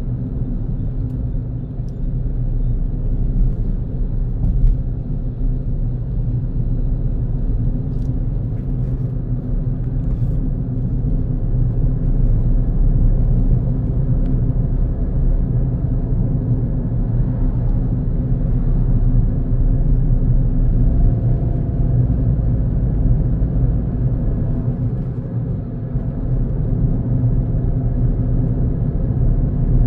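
Car driving along a road: a steady low rumble of engine and tyres, with a few faint ticks.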